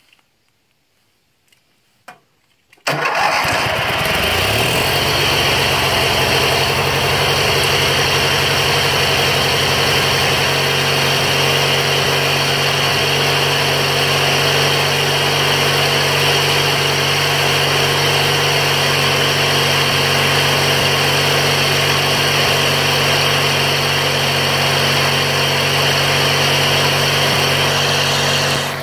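Briggs & Stratton 14 HP opposed-twin engine of a Bolens garden tractor starting about three seconds in, its pitch climbing briefly as it catches, then running steadily.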